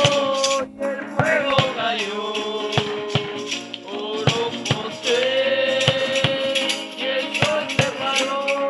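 Group singing a Spanish-language praise chorus, with long held notes, to shaken hand percussion that keeps a quick, steady beat.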